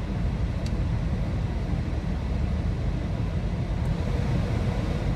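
Steady low rumble of a car heard from inside the cabin, engine and road noise running evenly.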